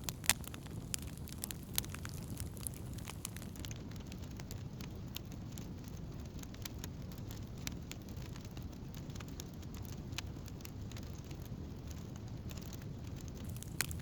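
Wood campfire burning, with many sharp crackles and pops of burning wood over a steady low rumble of the flames. The pops come thickest in the first couple of seconds and near the end.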